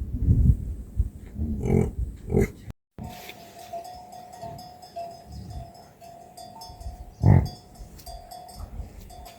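Cattle with neck bells: deep animal calls in the first few seconds, then a bell ringing on and off, with one loud low call a little after seven seconds.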